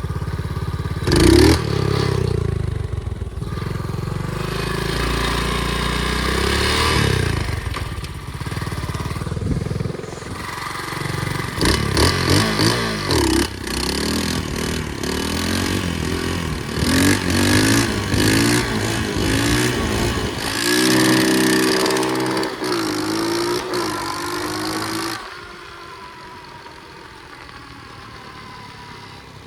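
Pit bike engine running hard, its pitch repeatedly rising and falling as it revs up and eases off through the gears. About 25 seconds in the engine sound drops away sharply, leaving a quieter, slowly falling whine.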